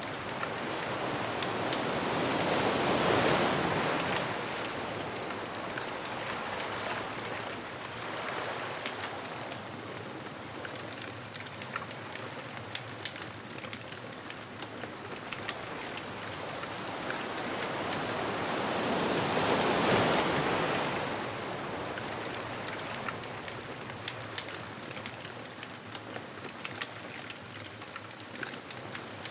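Ocean waves breaking on a beach: two bigger waves swell in and wash up, one about three seconds in and one about twenty seconds in, with steady surf between them. Faint scattered crackles of a wood bonfire sound throughout.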